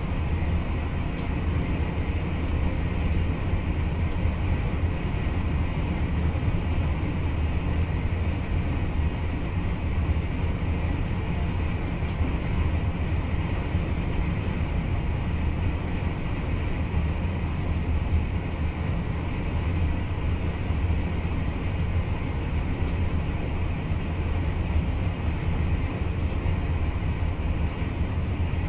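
NS VIRM double-deck electric train running along the line, heard inside the driver's cab as a steady, unbroken low rumble.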